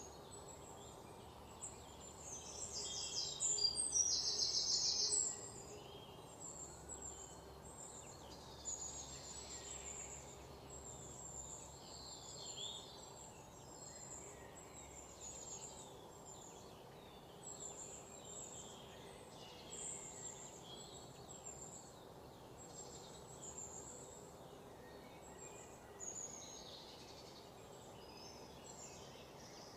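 Birds chirping outdoors: many short, high-pitched calls repeating throughout, with a louder, harsher run of calls about three to five seconds in, over faint steady background noise.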